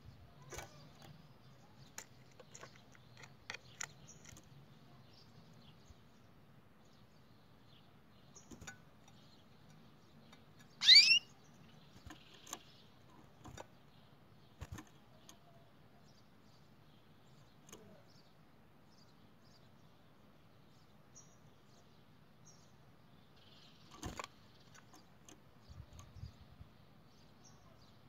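A bird gives one loud, sharp chirp that sweeps steeply upward, about eleven seconds in. Otherwise there are only faint scattered ticks and clicks over a low background hum.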